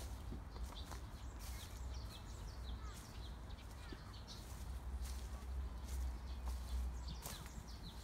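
Small birds chirping in short, scattered calls over a low steady rumble, with a few soft footsteps.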